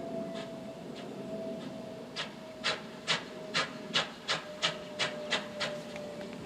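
A train moving off: a run of about ten short rasping beats that come steadily faster, over a steady hum.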